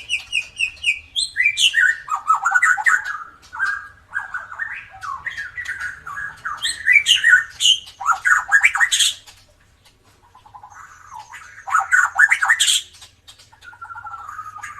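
White-rumped shama (murai batu) singing a rapid, varied run of whistles and harsh chattering notes, with a short pause about two-thirds of the way through.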